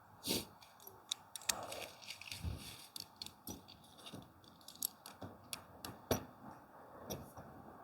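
Tent fabric and gear being handled during pitching: irregular clicks, taps and rustles, with a few sharper knocks, the loudest just after the start and about six seconds in.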